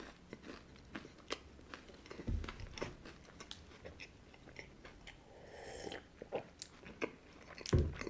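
Close-miked chewing of chocolate candy, with many small wet clicks and crunches. About halfway through there is a soft sip of tea, and near the end a single low thump, the heavy glass mug being set down on the table.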